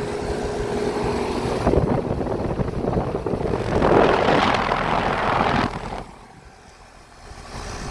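Luxaire air-conditioning condensing unit running in cooling mode: the condenser fan's steady rush of air over a faint hum. The sound is loud, then drops sharply about six seconds in and rises again near the end.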